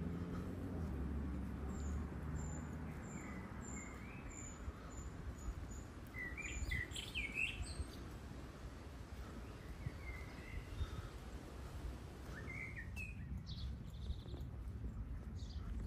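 Small birds calling: a run of thin, very high notes about two a second for a few seconds, then louder, lower chirps about six to seven seconds in, with scattered chirps after. A low rumble of traffic fades out near the start.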